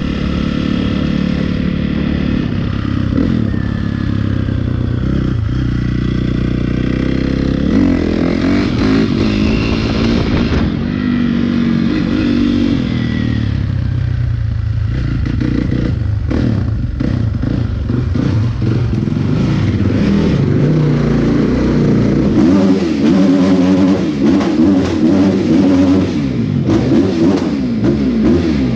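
Dirt bike engine running as it is ridden, its pitch rising and falling repeatedly with throttle and gear changes. Short knocks and rattles come in over the engine in the second half.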